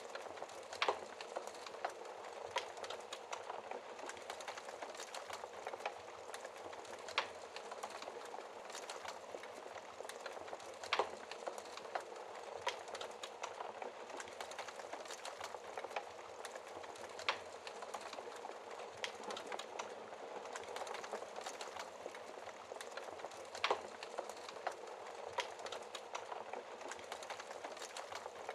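Wood fire crackling in a fireplace: a steady bed of fine crackle with a sharper pop every few seconds.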